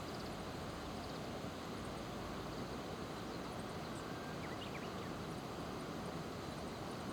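Steady outdoor background rumble and hiss, with a few faint, short, high bird chirps about four and a half seconds in.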